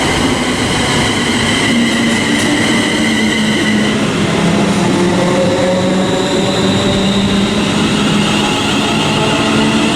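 Electric multiple-unit train moving through the station, a continuous loud rumble of wheels on track with the whine of its electric traction motors, some of the whining tones slowly shifting in pitch.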